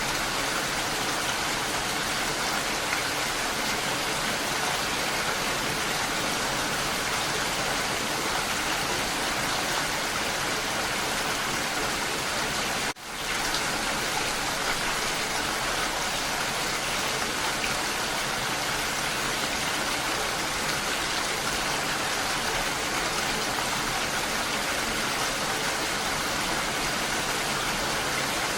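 Steady, even rain falling. About halfway through, the sound briefly drops out and fades back in within a second.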